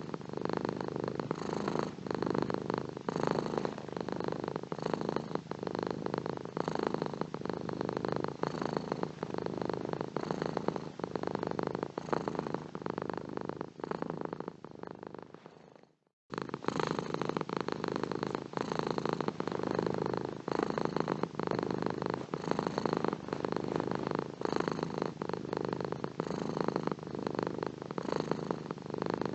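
Domestic cat purring steadily and close, a dense fast flutter. About halfway through it fades down, cuts out for a split second, and starts again abruptly at full strength, like a loop point in the recording.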